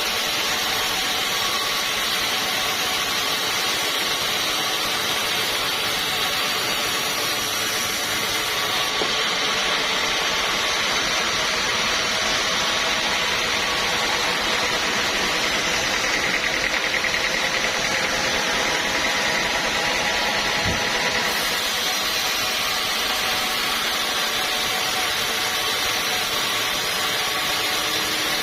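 Sawmill running steadily: a continuous mechanical drone with a hiss and several steady tones, holding an even level throughout.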